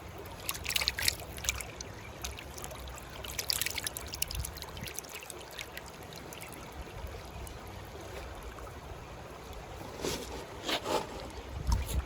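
Creek water trickling and flowing steadily over a low rumble, with a few short sharp ticks or small splashes in the first few seconds.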